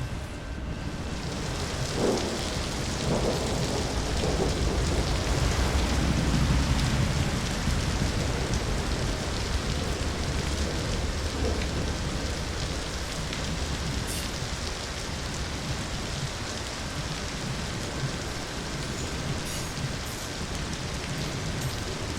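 Steady heavy rain with a long roll of thunder that builds about two seconds in, swells and slowly fades over the next ten seconds.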